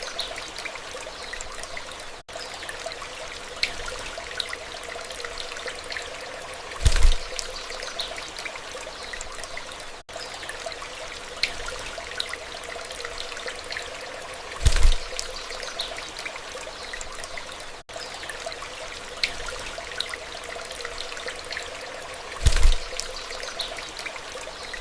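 Water trickling steadily, with a low thump about every eight seconds; the same few seconds of sound repeat as a loop.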